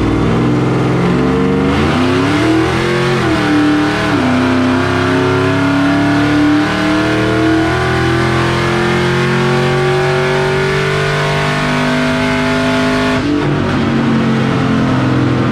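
Whipple-supercharged Ford Lightning pickup's V8 making a full-throttle pull on a chassis dyno. Revs climb, dip at an upshift about three to four seconds in, climb steadily through the next gear, then fall away sharply a couple of seconds before the end as the pull ends.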